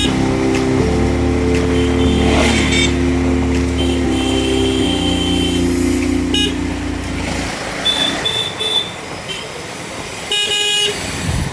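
KTM motorcycle engine running on the move, its pitch stepping up and down a few times before falling away about seven and a half seconds in. A vehicle horn honks briefly near the end.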